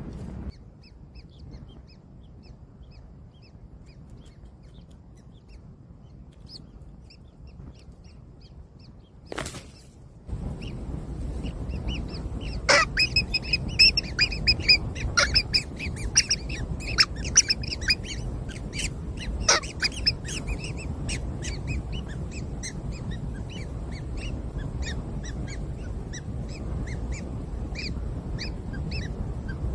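Nestling birds calling: faint short cheeps at first, then, after a sudden rise in background noise about ten seconds in, several seconds of loud rapid calls that settle into a steady series of short repeated cheeps, a few a second, over a low steady background noise.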